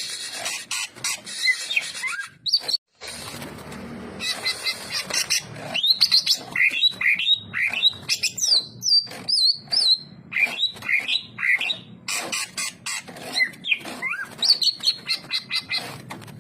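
Green leafbird (cucak ijo) singing: quick phrases of varied whistles and chirps with short pauses between them. The sound drops out for a moment about three seconds in.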